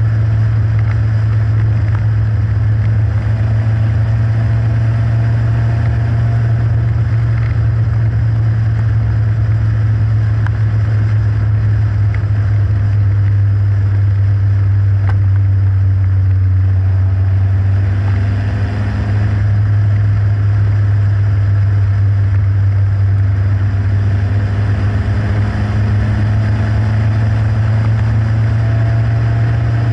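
Westfield kit car's 1.8 Ford Zetec four-cylinder engine running at speed on the road, heard from a bonnet-mounted camera as a loud, steady low rumble. The engine note climbs a few times as the revs rise, most clearly about two-thirds of the way through and again near the end.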